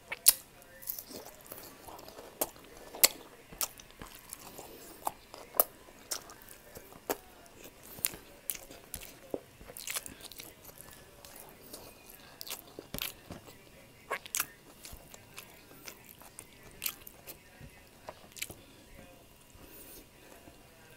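Close-miked eating of pork liver steak with onion rings: chewing and mouth sounds with sharp, irregular wet clicks, about one or two a second.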